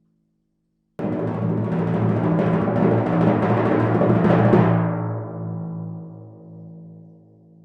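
Timpani drum roll starting abruptly about a second in, growing slightly louder, then stopped about four and a half seconds in and left to ring, the drum's low tone fading away.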